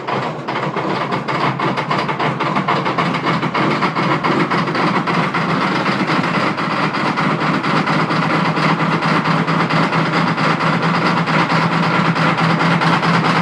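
John Deere diesel tractor engine running steadily just after a cold start, with a fast, even diesel clatter.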